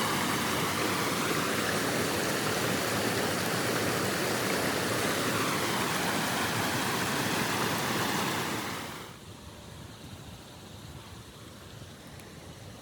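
Loud, steady rushing of blizzard wind, which drops off sharply about eight to nine seconds in to a much quieter hiss.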